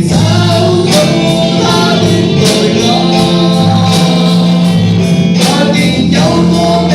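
Loud live band music with singing.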